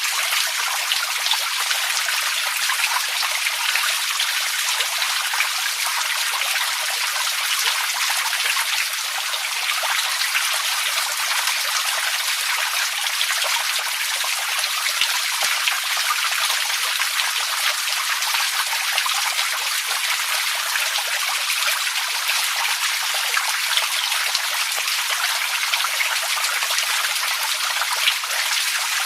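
Water running and splashing steadily, a continuous trickling hiss full of small droplet splashes that never lets up.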